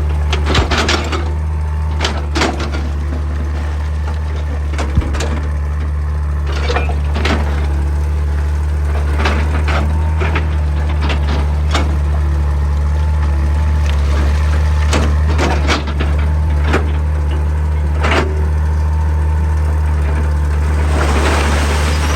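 Heavy excavator's diesel engine running at a steady low drone, with irregular sharp knocks and clanks of steel on rock every second or two.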